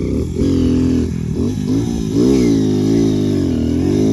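Motorcycle engine revving, its pitch swinging up and down with the throttle, with a couple of brief drops in the first second and a half.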